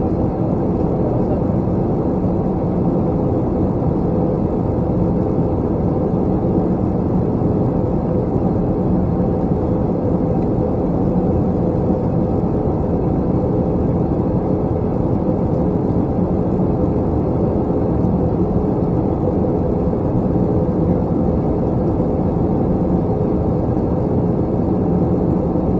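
Steady cabin noise inside an Airbus A321 airliner in flight on descent: a continuous rush of engine and airflow noise with a low steady hum, unchanging throughout.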